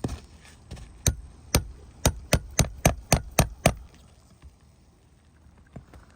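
A shingle hammer strikes a nail puller about nine times, the blows speeding up, driving the puller in to pull a roofing nail from an asphalt shingle.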